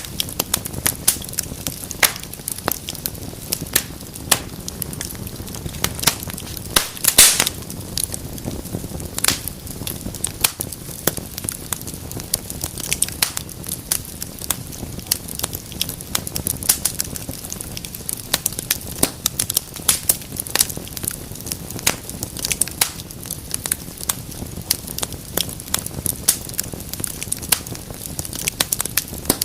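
Wood fire burning in a fireplace: dense irregular crackling and popping over a low steady rumble of flame, with one louder pop about seven seconds in.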